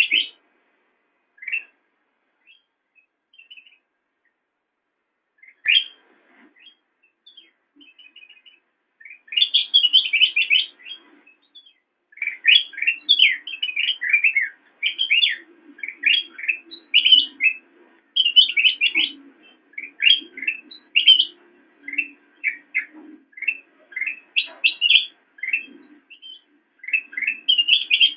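Kutilang emas (a bulbul) singing: a few short, scattered notes with gaps at first, then a long run of rapid, chattering whistled phrases from about a third of the way in.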